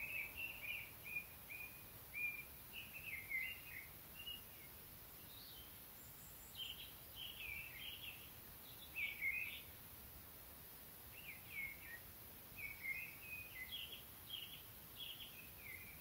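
A songbird singing in short, varied high phrases, in about four bouts with brief pauses between them, over a faint steady background hiss.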